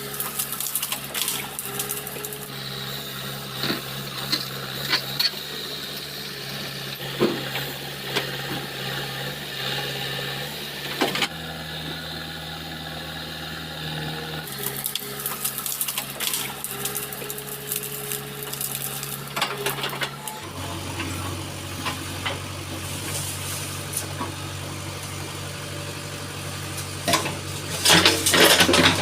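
Heavy vehicle's diesel engine running steadily, its low drone jumping abruptly in pitch a few times, with scattered clanks and rattles that grow louder near the end.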